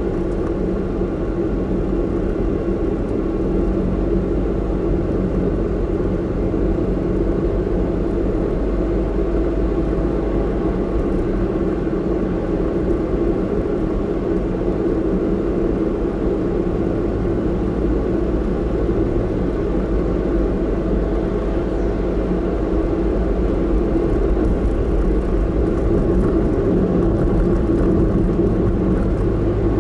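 Car driving at steady speed: continuous engine and tyre rumble with road noise, heard from inside the cabin, a little louder near the end.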